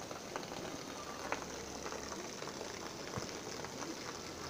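Steady rain falling, a continuous hiss with scattered small drips and taps.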